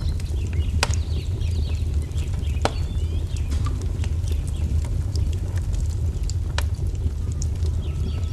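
Wood fire crackling over a steady low rumble, with three sharp pops: about one second in, near three seconds and near seven seconds. Small birds chirp throughout in quick, short falling notes.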